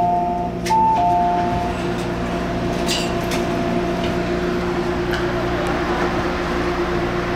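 Two-note electronic chime on board an MTR Airport Express CAF train, a high note then a lower one, sounding twice in the first two seconds. Under it is the steady hum of the train's interior.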